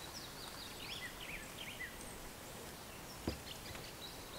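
A songbird singing a quick run of slurred, up-and-down whistled notes over a quiet outdoor background. A single sharp knock comes about three seconds in.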